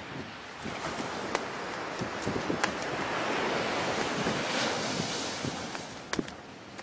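Ocean surf: a wave rushes up the beach, swelling to a peak midway and fading away, with a few sharp clicks over it.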